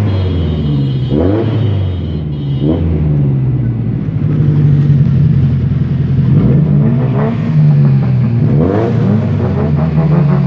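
Car engines with loud modified exhausts revving in quick throttle blips over a steady idle, about seven rising-and-falling revs with a lull of a few seconds in the middle.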